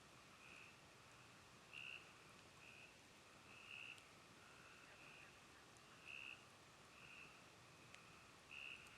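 Frogs calling at night: short, high trills about once a second, a louder and a softer caller taking turns. A few faint crackles from a campfire.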